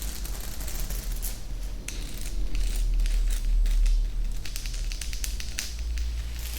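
Close-miked ASMR trigger sounds: rapid, irregular clicks and crackles over a low rumble that swells about halfway through.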